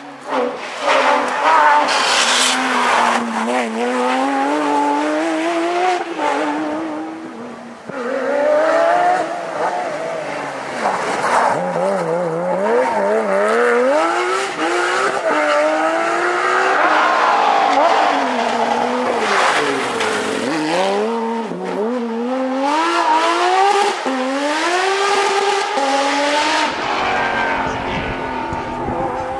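Rally car engines revving hard at full throttle, their pitch climbing and dropping again and again through gear changes, with deep drops in pitch twice as the cars slow.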